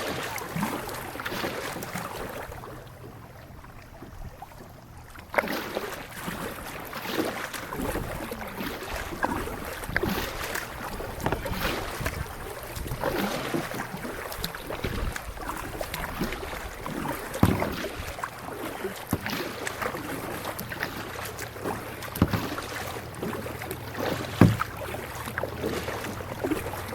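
Kayak paddling: the paddle dips and splashes water in irregular strokes, with a few sharper knocks along the way. The strokes pause briefly a few seconds in.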